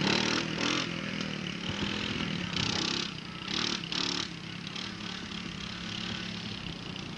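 A small engine running steadily, with a few short hissing bursts over it.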